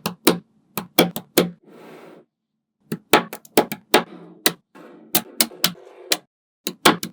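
Small magnetic balls clicking sharply together as they snap into place, in quick clusters of two to four clicks with a softer rattle between some of them and brief silent gaps.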